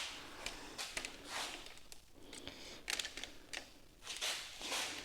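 Soft rustling swells and a few light clicks and taps, the sound of something being handled close to the microphone.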